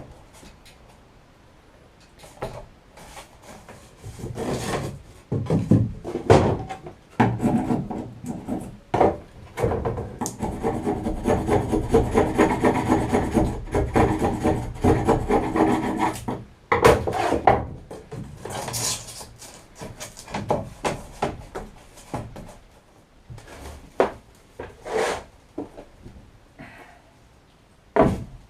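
Hand saw cutting through cured closed-cell foam with back-and-forth strokes, trimming the risen foam flat. The strokes are scattered at first, come in a long, fast, steady run through the middle, then turn sporadic again.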